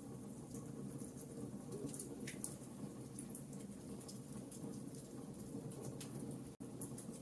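Wood fire burning in a fireplace: a steady low rumble with irregular small crackles and pops. The sound drops out for an instant about six and a half seconds in.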